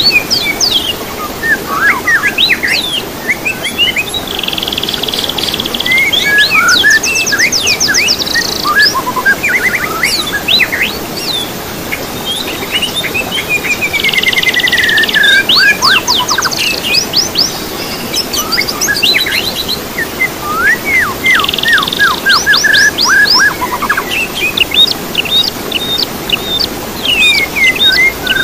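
Recorded songbird song used as a tutor track for caged birds: a continuous, varied stream of whistled notes, fast trills and buzzy rattling phrases, over a steady low hiss.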